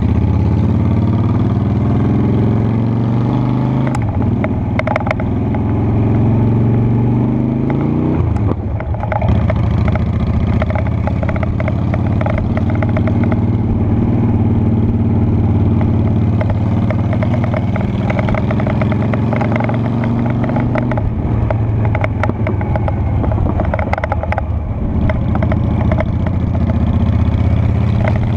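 Honda Shadow Spirit 750's V-twin engine running while riding, revving up through the gears. The pitch drops at each shift, about four and eight seconds in and again around twenty-one seconds.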